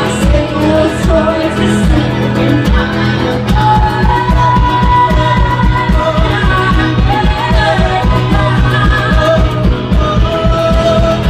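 Pop-rock song: a voice singing a melody over bass, guitar and a steady drum beat, the beat getting busier about three seconds in.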